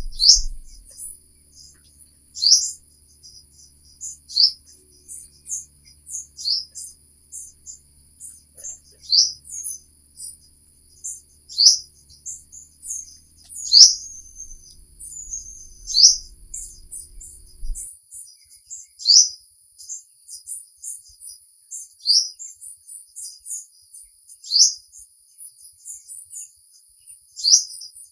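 Birds chirping: one bird repeats a loud, downward-sliding chirp every two to three seconds, with fainter chirps from others in between, over a steady high-pitched hum.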